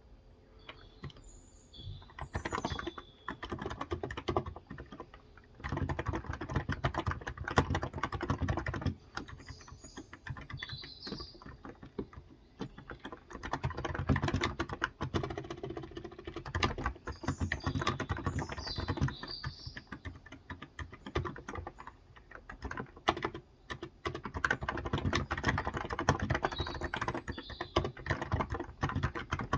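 Typing on a Cox Endeavor electro-capacitive (Topre-style) tenkeyless keyboard with 35 g switches, in runs of keystrokes broken by short pauses. Birds chirp several times in the background.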